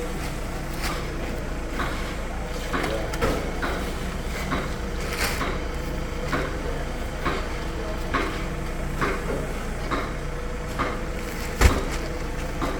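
Cement being unloaded: short thumps of bags landing, about one a second, with a louder knock near the end, over a steady low engine hum.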